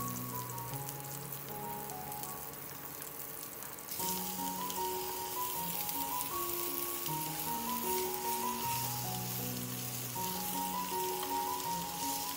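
Oil sizzling in a frying pan as sliced shallots fry. About four seconds in, the sizzle gets louder as sliced bamboo shoots are added and stirred with chopsticks. Soft background music with a simple melody plays throughout.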